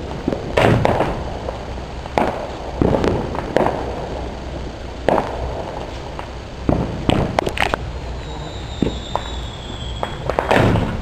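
Fireworks going off in an irregular string of sharp bangs. Near the end a whistle falls slowly in pitch for about two seconds, followed by the loudest bang.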